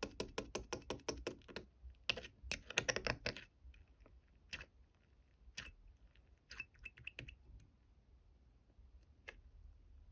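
Rapid clicking in two quick runs over the first three and a half seconds, then scattered single clicks.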